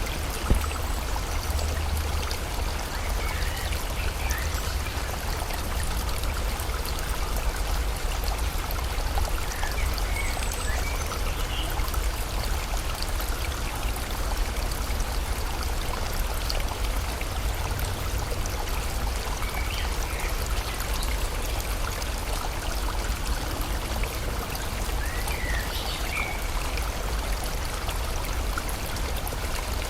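Steady rush of a flowing stream with rain falling, and faint, brief bird chirps a handful of times.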